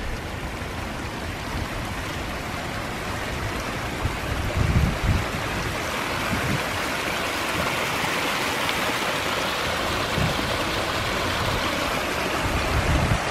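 Steady rush of a creek running high after heavy rain, growing a little louder partway through, with a few low bumps on the microphone.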